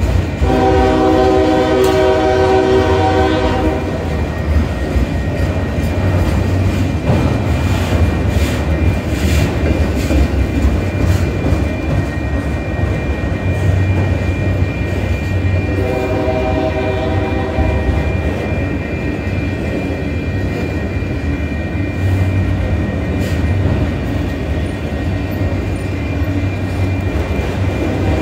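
Autorack freight cars rolling past with a steady rumble and wheel clatter, while the train's lead locomotive, well up the street, sounds its air horn in two long blasts: one near the start and one a little past halfway, with a third beginning at the very end.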